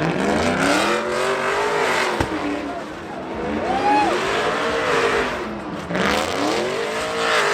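A truck's engine being revved hard over and over, its pitch climbing and dropping about four times, over a steady rushing noise.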